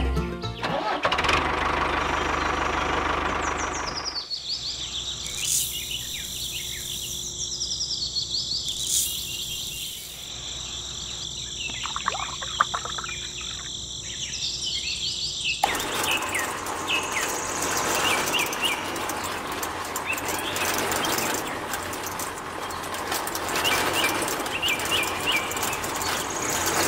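Birds chirping and tweeting in repeated short calls over a steady rushing background noise, which drops away about four seconds in and comes back about twelve seconds later.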